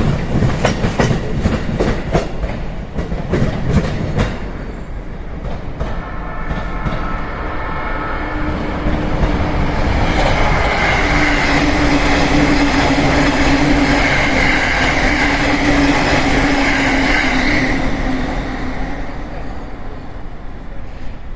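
An E233-2000 series electric commuter train rolling over rail joints, a rapid clickety-clack for the first few seconds. Then a steady whine over the rumble of the train that swells, holds for several seconds and fades near the end.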